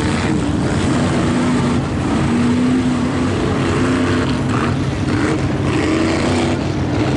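V8 engine of a Chevrolet Blazer mega mud truck running hard, its revs rising and falling without a break.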